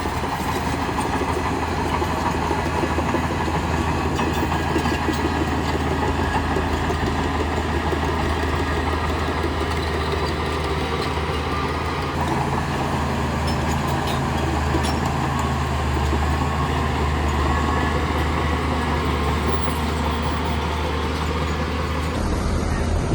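Shantui crawler bulldozer's diesel engine running steadily with metallic clatter from its steel tracks; the engine note strengthens about twelve seconds in. Near the end the sound changes abruptly.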